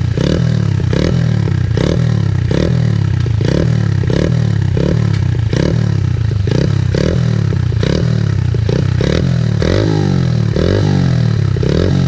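Single-cylinder 108cc pit-bike engine, fitted with a freshly fabricated muffler, running loud and being revved in short repeated blips about twice a second. Its exhaust note is a deeper thump rather than a hollow tinny can sound, and it sounds more like a 450.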